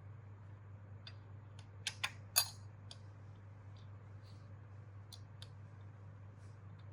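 Scattered small clicks and light taps of small parts being handled, with a quick cluster of louder clicks about two seconds in, over a low steady hum.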